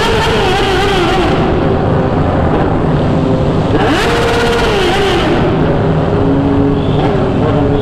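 Motorcycle engine running through changes of speed: its pitch drops twice and climbs once in between. Wind hiss on the microphone comes and goes with the faster stretches.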